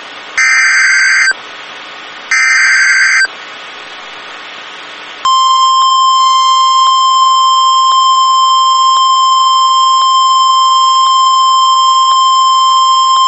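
NOAA Weather Radio emergency alert signal for a flash flood warning: two short bursts of screeching SAME digital header data about a second apart. About five seconds in, the steady 1050 Hz warning alarm tone begins and holds.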